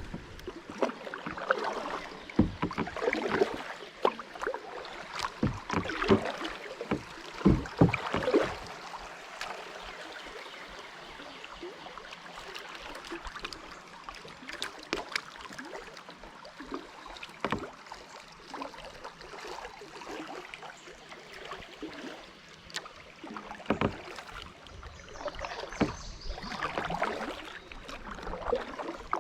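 Kayak being paddled: irregular paddle splashes and water noise with scattered sharp knocks, busiest for the first eight or nine seconds, quieter through the middle, and picking up again near the end.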